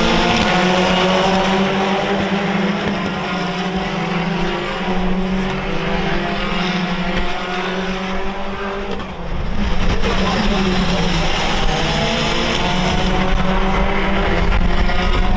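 Race cars passing on the circuit, several engines revving at once with pitch rising and falling through gear changes. The sound eases about nine seconds in, then swells again as more cars come through.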